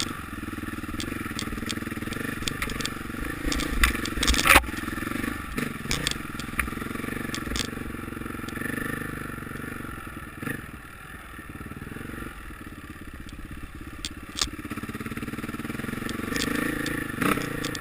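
Motocross motorcycle engines running, their pitch wavering, with scattered sharp clattering knocks. The loudest knock comes about four and a half seconds in.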